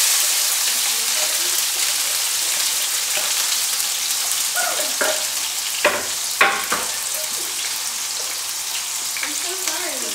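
Diced bell peppers sizzling steadily in hot oil in a frying pan. About six seconds in there are two sharp knocks, a second or less apart.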